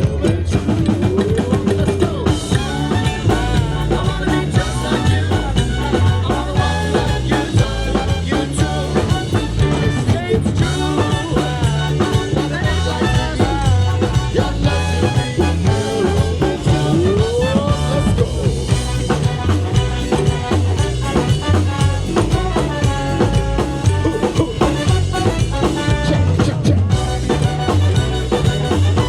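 Live band playing upbeat music over a drum kit, with pitched parts that slide up in pitch a couple of times.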